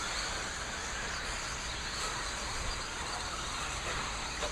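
Several RC stock trucks racing around the track: a steady, noisy wash of small motors and tyres on the surface, with no single event standing out.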